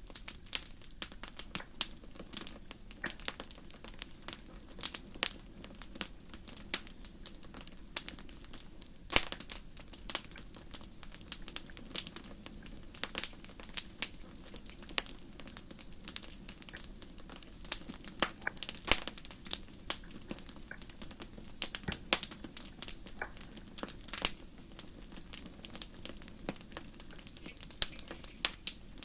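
Wood fire crackling, with irregular sharp pops and snaps several times a second over a low steady hiss.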